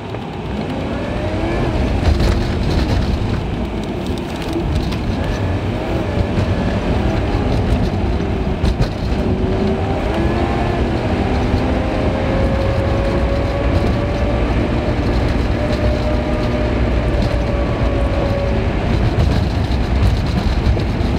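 Car interior road and engine noise recorded by a dash cam and sped up to three times normal speed: a steady rumble and tyre hiss, with a faint engine tone rising and falling as the car speeds up and slows.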